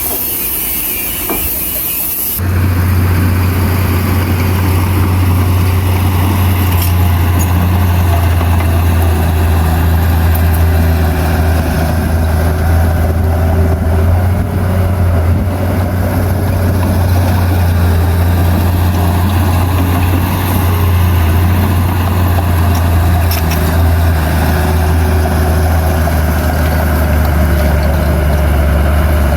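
Heavy diesel earthmoving machine engine running steadily under load, a loud, even low drone. For the first two seconds or so there is a hiss, which cuts off suddenly as the engine sound takes over.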